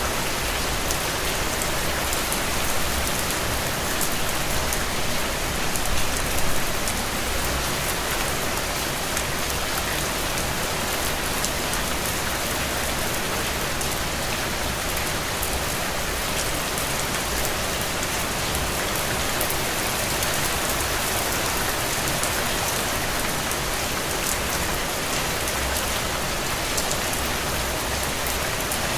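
Steady rain falling on a window, a dense even patter with fine drop ticks and occasional low swells, especially early on.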